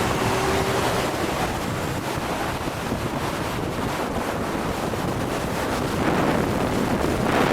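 Heavy wind rushing over the microphone, with a Suzuki GSX-R600 sport bike running at speed beneath it; a steady engine note fades out about a second in.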